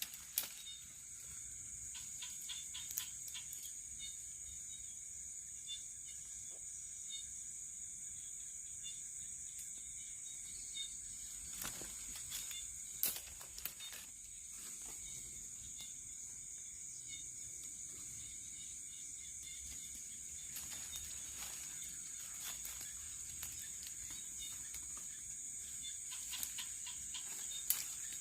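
Night insects chirping in a steady high-pitched drone, with a second fainter pulsing chirp lower down. A few scattered clicks and knocks stand out, the loudest about thirteen seconds in.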